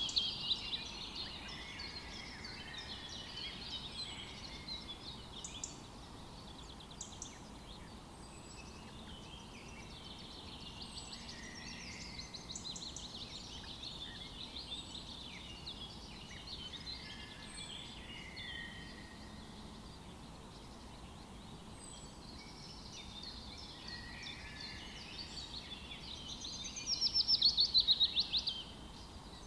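Several birds singing and calling together in a steady chorus of chirps and short phrases. Near the end, one bird sings a loud, rapid trill that lasts about two seconds.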